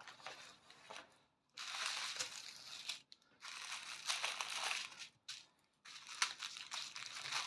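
Plastic packaging crinkling and rustling in hands, in several stretches with short pauses between them.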